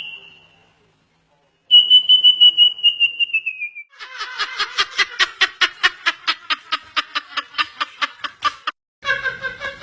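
Bird-like whistled calls in separate spliced segments. A fast high trill stops dead, then returns and falls slightly at its end. It gives way to a run of rapid repeated calls, about five a second, and near the end there is a cut to a different, lower call.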